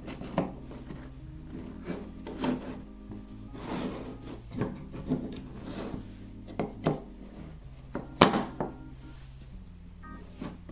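Wooden toy train track pieces handled and fitted together: irregular wooden knocks and clacks with some scraping of wood on wood, and one sharp click about three quarters of the way through. Soft background music plays underneath.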